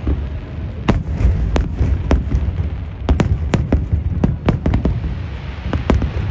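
Aerial fireworks going off: a rapid, irregular series of sharp bangs and cracks, about two a second, over a constant low rumble of further bursts.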